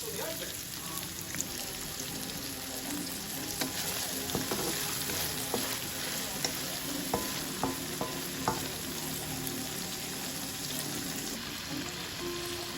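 Food sizzling steadily as it fries in a pan while being stirred, with a utensil clicking against the pan several times around the middle.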